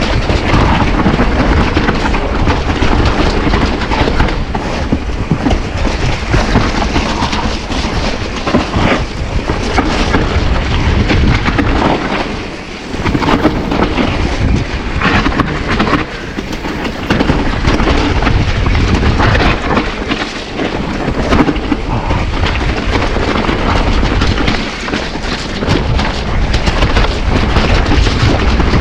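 Wind blasting over a camera microphone while a Nukeproof Giga mountain bike rides fast down a rough, wet trail, its tyres rumbling and the bike rattling and knocking over bumps. The noise drops briefly a few times, around the middle and about three quarters of the way through.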